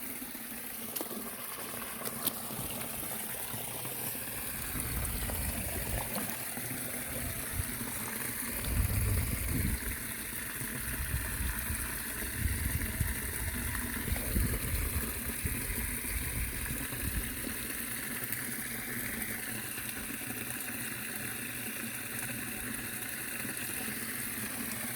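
Stream water running steadily over a weir, with a few low rumbles now and then.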